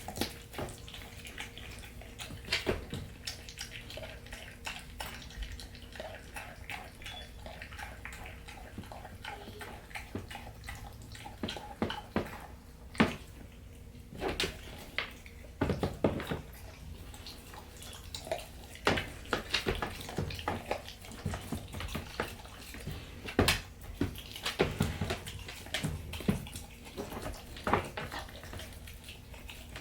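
Pitbull puppy eating raw meat and chicken: wet chewing and smacking, broken by irregular sharp crunches and clicks, several of them loud and more frequent in the second half.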